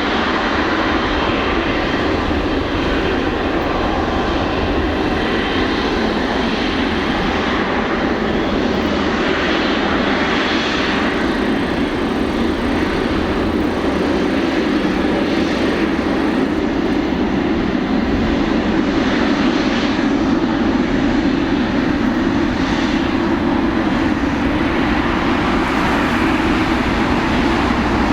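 Boeing 777-300ER's twin GE90-115B turbofan engines at takeoff thrust: a loud, steady jet noise that holds for the whole stretch.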